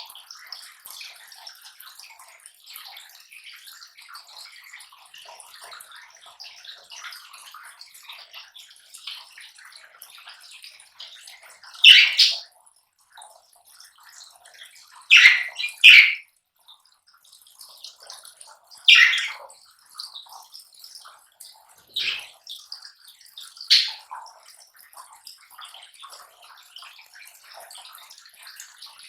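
Lovebirds at palm leaves: a constant, fine crackling rustle and chatter, broken by six louder, sharp bursts between about 12 and 24 seconds in.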